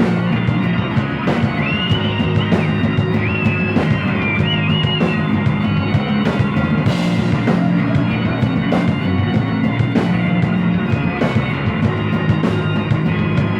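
Instrumental psychedelic rock: drum kit and guitar playing steadily, with a high wavering lead line for a few seconds near the start.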